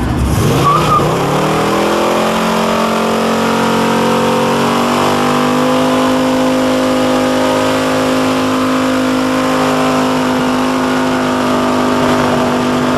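Hot rod engine revving up over the first couple of seconds, then held at high, steady revs during a burnout, with the noise of spinning tyres over it.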